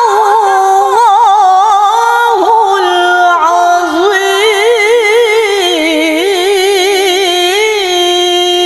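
A woman's voice reciting the Qur'an in the melodic tilawah style: one long drawn-out phrase, with quick wavering ornaments in the middle, settling onto a steady held tone near the end.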